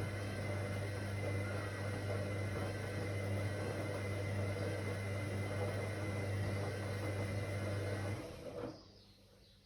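Whirlpool AWOC 8283 washing machine running steadily with a low hum, then switching off about eight seconds in and quickly going quiet.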